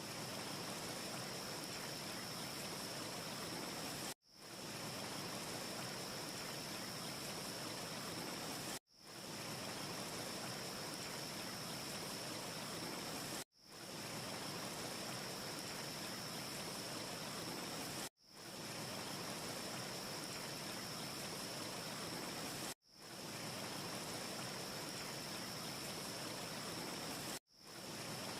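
A short looped ambience track of steady rushing noise with a thin high whistle running through it, and no crackle heard. It cuts off abruptly and fades back in every four and a half seconds or so, six times, at each seam of the loop.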